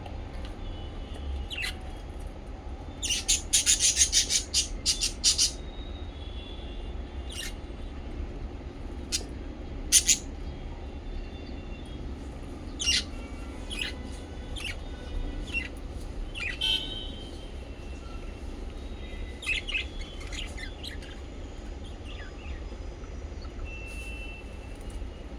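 Small pet parrots chirping: a quick run of high chirps a few seconds in, then scattered single chirps and short bursts, over a steady low hum.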